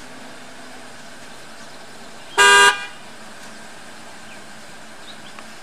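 Car horn giving one short, loud beep about two and a half seconds in.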